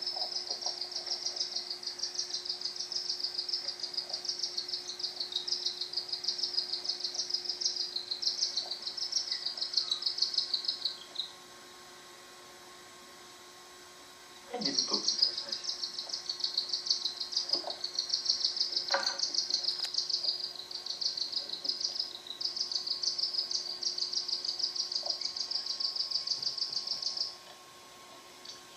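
Cockatiel chick a few days old giving rapid, rhythmic high-pitched begging chirps while its father feeds it. Two long bouts of about eleven and thirteen seconds, with a pause of a few seconds between them.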